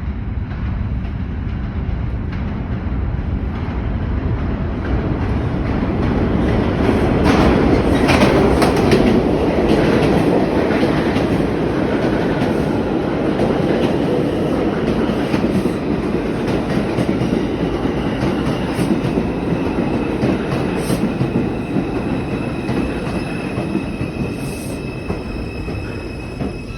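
New York City subway 2 train rumbling and clattering over the rails as it runs into the station and slows. Thin high squealing tones join in the last several seconds as it brakes toward a stop.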